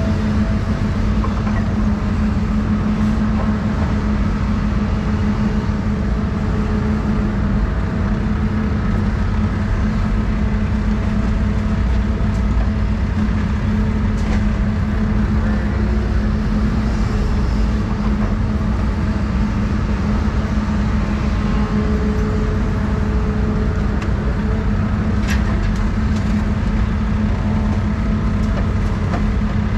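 Doosan 350 excavator's diesel engine running steadily under load, a constant low hum, with faint higher whines coming and going over it.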